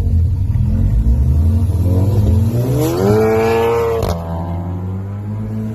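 Car engine running with a low rumble, then revving up steadily in pitch for about a second and a half. A sharp snap comes about four seconds in as it shifts, and the engine settles to a lower steady drone.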